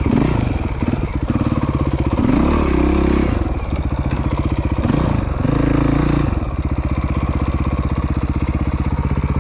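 Dirt bike engine idling, blipped three times in short revs over the first six seconds, then settling back to a steady idle.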